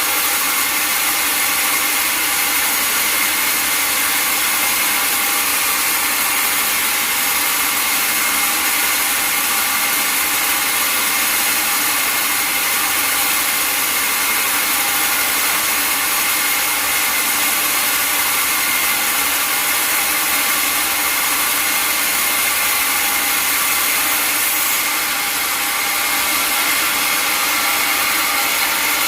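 Sawmill saw cutting through a log, running steadily with a continuous whine and rasp, dipping slightly once near the end.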